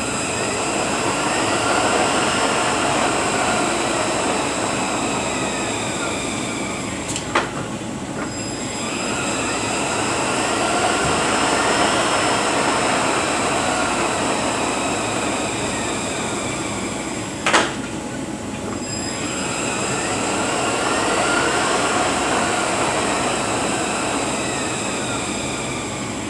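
Rebuilt Eaton Fuller RTLO-18913A 13-speed truck transmission running on a test dyno: gear whine that rises and falls in pitch and loudness in three long swells. A sharp click comes about seven seconds in and again about seventeen seconds in.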